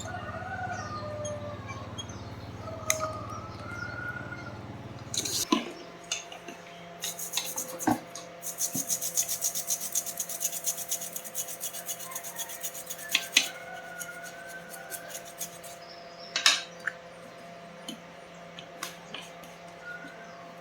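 Small metal tools and parts clicking and rattling as they are handled, with a fast run of rattling clicks in the middle. A low steady hum cuts off about five seconds in.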